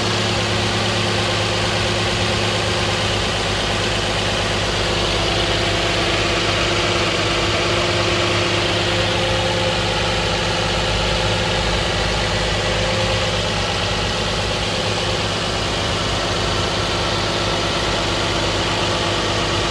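2010 Nissan Maxima's 3.5-litre V6 idling steadily on a cold start, with no knocking noise. The puttering knock the owner hears only comes once the engine has warmed up.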